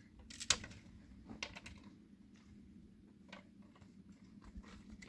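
A few scattered light clicks and taps, the loudest about half a second in, over a faint steady hum.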